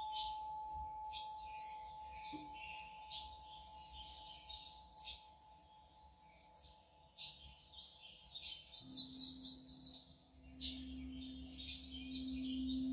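Birds chirp busily and continuously over sustained singing-bowl tones. A high bowl tone rings and slowly fades over the first few seconds, and a lower bowl tone comes in about nine seconds in and swells.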